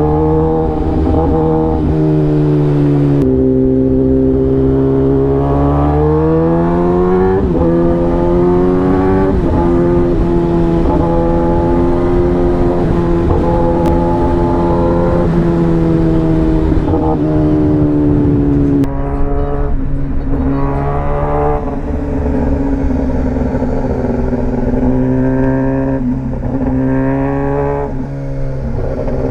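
Kawasaki ZX-10R inline-four superbike engine under way on an SC-Project exhaust. Its pitch climbs as the throttle opens and drops sharply a few times as it shifts gear, with the bike's speed giving it a steady rush of noise.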